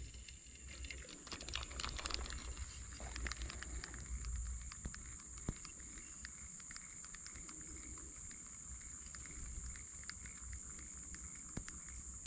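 Faint small ticks and clicks from a Qida QE2000A spinning reel and rod handling as a soft plastic lure is cast and retrieved, denser in the first few seconds. Under it runs a steady high-pitched insect drone.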